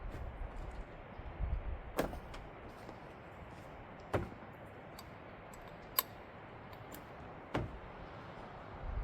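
Four sharp clicks and knocks about two seconds apart, with a few fainter ticks between, as gear for making coffee is handled.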